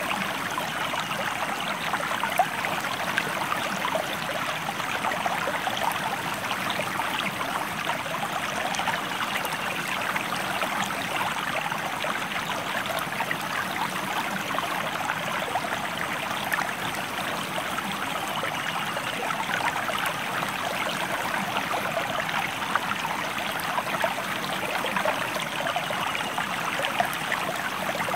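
River water flowing steadily over stones: a constant rushing with many small splashes and trickles.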